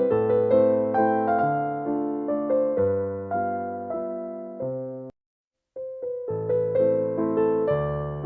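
Light classical piano music playing note by note. It breaks off into a half-second of silence a little past the middle, then picks up again.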